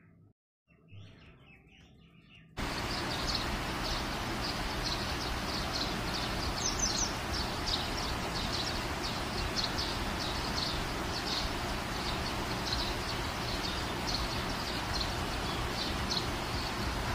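Near silence at first, then, about two and a half seconds in, a steady outdoor hiss begins with many short, high bird chirps repeating irregularly.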